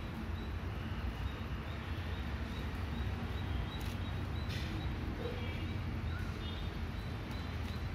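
Outdoor ambience: short, faint bird chirps over a steady low rumble.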